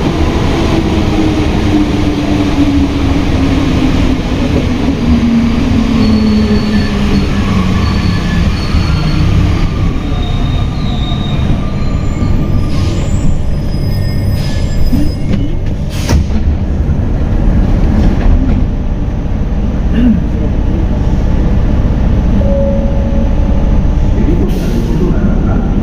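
Alstom NS-93 rubber-tyred metro train slowing into a station, heard from inside the car: a falling whine from the drive over roughly the first nine seconds as it brakes, then a steady low rumble while it stands, with a single sharp click about sixteen seconds in.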